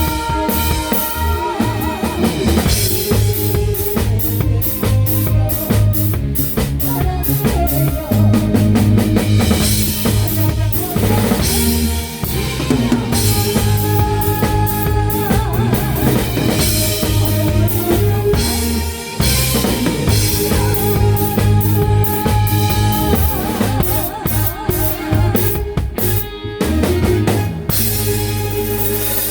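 A live band playing a song, the drum kit keeping a steady beat with kick and snare over sustained bass and guitar notes.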